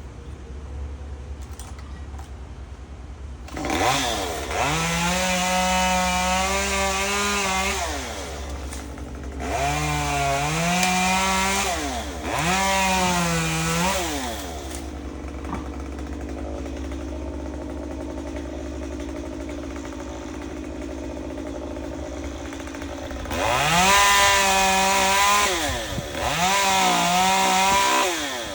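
Chainsaw engine revving up and dropping back to idle about five times, each burst lasting a couple of seconds, with a long stretch at idle in the middle.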